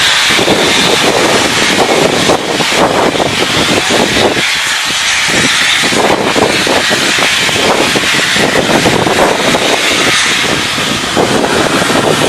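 LNER A3 Pacific 'Flying Scotsman', a three-cylinder steam locomotive, pulling away from a station with a train. Its exhaust and escaping steam make a loud, continuous hissing sound.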